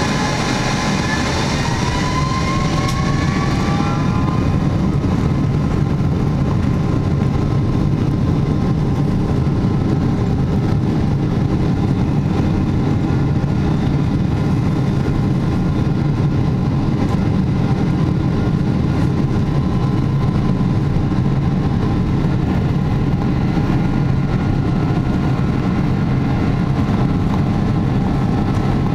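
Rolls-Royce Trent engines of a Boeing 777-200ER spooling up to full takeoff power, heard inside the passenger cabin. A rising whine levels off about four seconds in into a steady, loud engine noise over a deep rumble.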